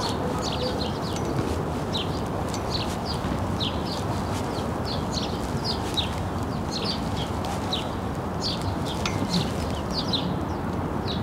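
Small birds chirping: many short, high chirps, several a second, over a steady background rush.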